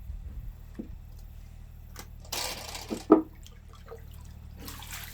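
Water being poured and splashing into a stew pot of fish and vegetables, in two spells, with one sharp knock about three seconds in.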